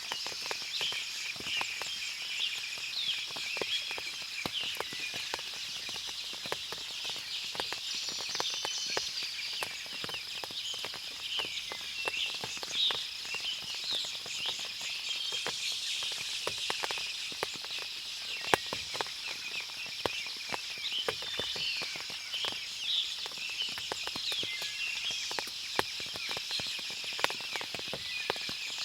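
Forest after rain: many birds chirping and calling over a steady high insect hum, with water dripping from the foliage in scattered sharp taps.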